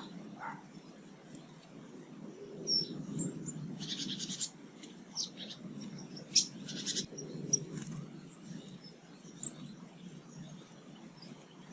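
Small garden birds calling: scattered short, high chirps, with two quick rattling runs of notes about four and seven seconds in. A steady low rumble runs underneath.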